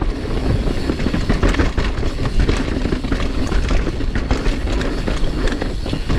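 Mountain bike riding down a dirt trail: tyres rolling over the ground with a steady clatter of chain and frame rattling over the bumps.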